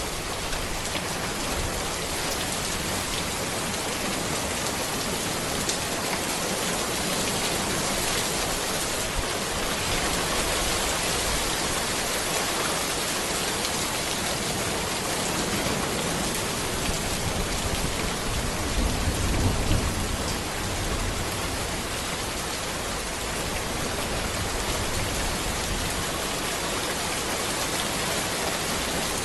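Steady rain falling on a road, an even hiss of drops. A brief low rumble rises and fades about two-thirds of the way through.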